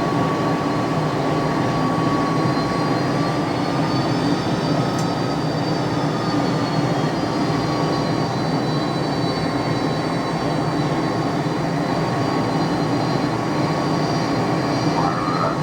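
McDonnell Douglas DC-10 jet engines running steadily, a dense roar with a thin whine that drifts slightly up and back down in pitch.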